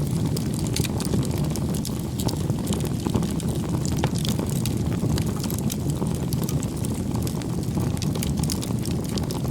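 Bonfire of firewood burning: a steady low rumble of flame with frequent small crackles and snaps from the wood.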